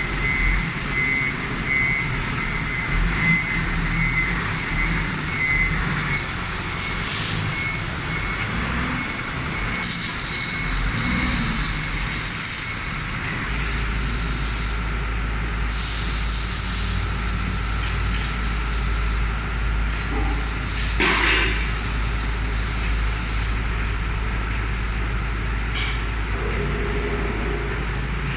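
Heavy vehicle engines running steadily, with several short bursts of hissing like air being released and a steady high whine for roughly the first twelve seconds.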